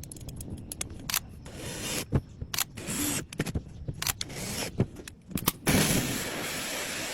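Hand work on a piece of wood while enlarging a hole in it: a string of sharp, irregular clicks and knocks, then a steady hissing whir that starts near the end.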